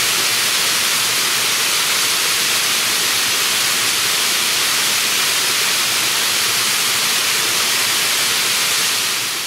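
Seseki Falls waterfall rushing: a steady, loud hiss of falling water that fades out near the end.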